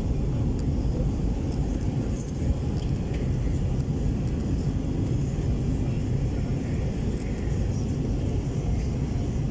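Steady low rumble of a moving vehicle, with a few faint high clicks.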